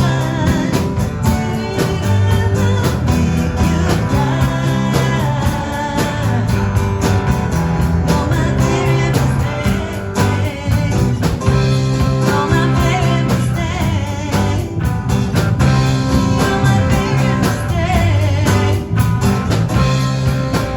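Live rock band playing: electric guitar, bass and drums with a lead vocal.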